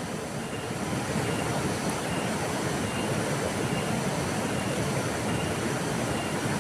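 Flowing river water rushing steadily, with a faint short high chirp repeating a little more than once a second.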